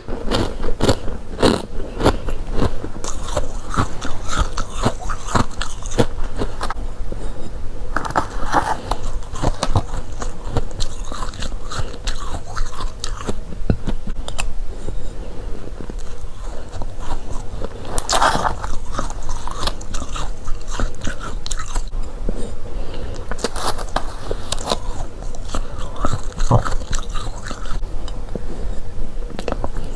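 Freezer frost being bitten and chewed close to the microphone: continuous runs of crisp crunches, with several louder bites spaced through.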